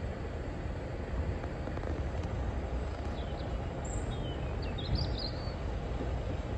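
Steady low outdoor rumble with a few short, high bird chirps about halfway through.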